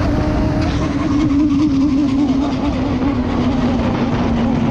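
Motorcycle engine running at high speed under heavy wind rush, its note dropping slightly about a second and a half in.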